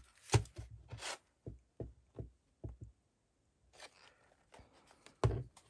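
Paper and a journal being handled on a tabletop: a series of light knocks and taps, then soft paper rustling, and a louder thump near the end.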